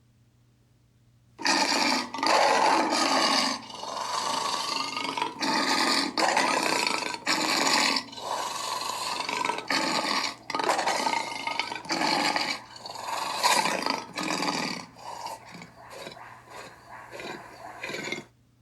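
Lion roar sound effects: a long run of rasping roars and growls, nearly back to back, starting about a second and a half in. The roars grow shorter and choppier over the last few seconds, then stop just before the end.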